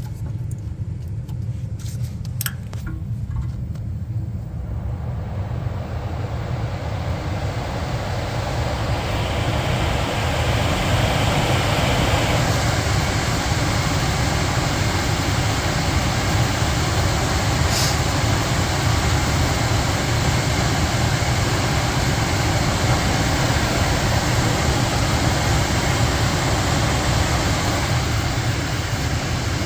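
Carrier gas furnace blower fan spinning up over several seconds and then running steadily, a constant rush of moving air over a low motor hum. A few sharp clicks come in the first seconds, and one more about halfway through.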